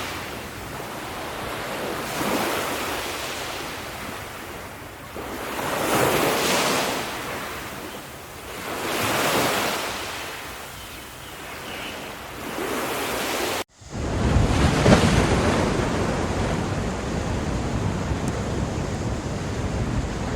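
Ocean waves breaking and washing up the shore, swelling every three to four seconds. About two-thirds of the way through, the sound cuts out for an instant, and then the surf is steadier and deeper, with a low rumble.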